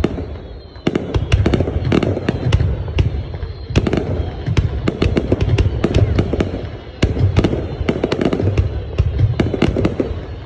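Fireworks going off in rapid volleys: many sharp cracks and bangs in quick succession over a low booming rumble, with short lulls about a second in, near the middle and later on.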